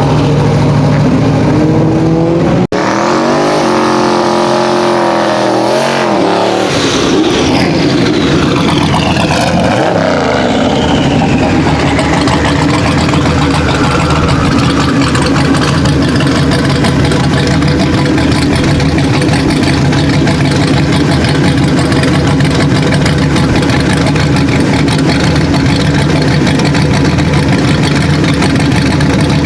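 Turbocharged small-block Ford 302 V8 of a Fox body Mustang running hard: after a sudden cut about three seconds in, it revs up with rising pitch, then its pitch slides down over several seconds. After that a loud, steady engine sound continues.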